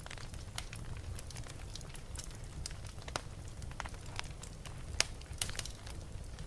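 Wood fire burning in a fireplace, crackling with irregular sharp pops over a steady low rumble, one louder pop about five seconds in.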